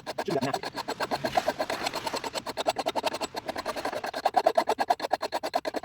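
Coarse hand file rasping across the steel edge of an axe head held in a vise, in rapid, even strokes, several a second, sharpening the first side.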